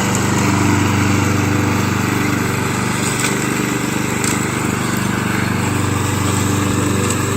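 Toro GTS walk-behind mower's 6 hp Briggs & Stratton Quantum single-cylinder engine running steadily.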